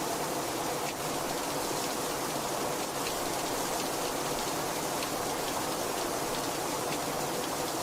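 Heavy rain falling steadily, a dense even hiss with the patter of individual drops striking a surface.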